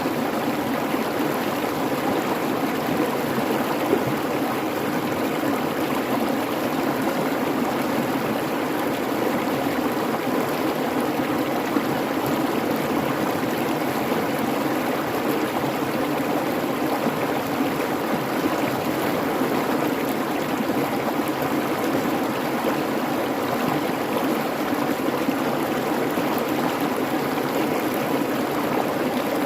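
A babbling creek flowing over rocks, a steady, unbroken rush of water.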